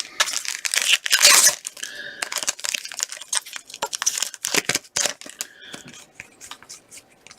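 Plastic trading-card pack wrapper crinkling and tearing for about the first second and a half. Scattered rustles and sharp clicks follow as the cards are handled.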